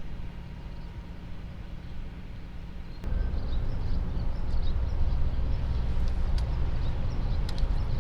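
Engine rumble, steady and low, that jumps abruptly louder about three seconds in, with faint high chirps above it.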